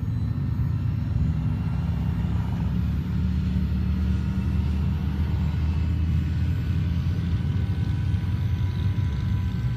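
A motor running steadily: an even, low drone with faint, steady higher whining tones above it.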